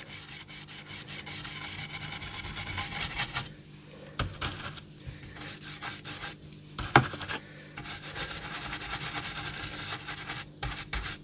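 A brush scrubbing ink onto card in quick, rapid scratchy strokes, with a brief pause about four seconds in and one sharp tap about seven seconds in.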